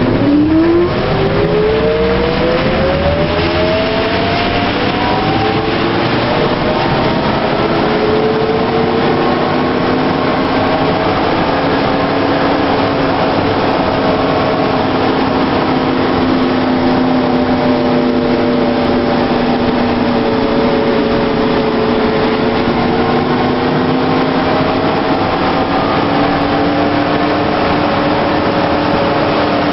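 EK-213 electric traction motor whining as it speeds up: its pitch climbs over the first few seconds, then holds a steady tone with slight wavering, over continuous rolling noise.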